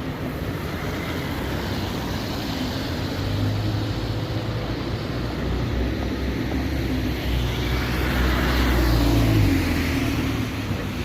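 Steady city traffic rumble, with a vehicle passing that swells loudest about eight to nine seconds in and then fades.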